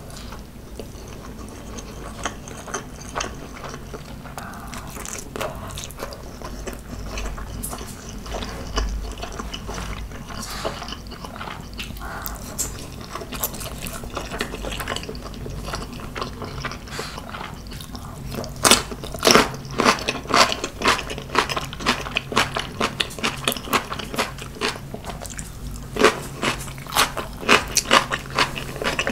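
A person chewing food close to the microphone: soft, wet chewing at first, then from about two-thirds of the way through, loud, rapid, crisp crunching.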